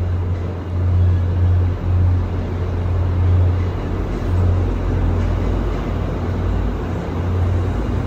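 MBTA commuter rail train rolling slowly past along the platform: a steady low rumble with wheel and rail noise as the coaches go by.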